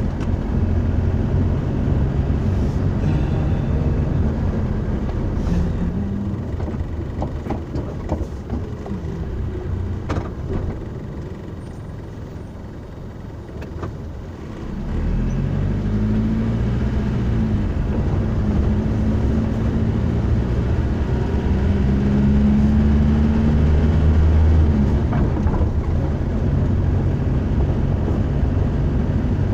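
Car engine and road noise heard from inside a moving vehicle. It eases off for a few seconds about halfway through, then pulls away again with the engine note rising and shifting. A few sharp clicks are heard along the way.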